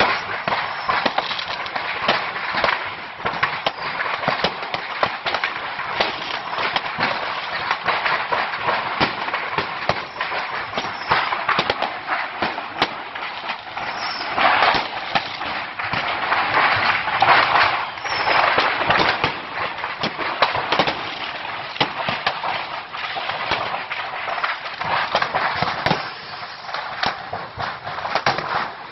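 Fireworks going off inside a burning storage building: a dense, continuous run of firecracker crackle and pops, with louder, thicker volleys about halfway through.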